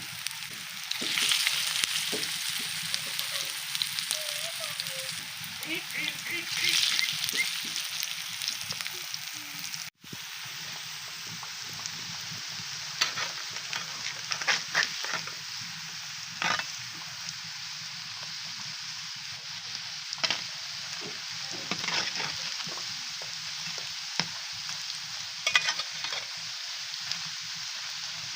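Food sizzling in hot oil in a pan, with a spatula stirring it in irregular scraping and clinking strokes against the pan. The sizzle cuts out for an instant about ten seconds in, then resumes.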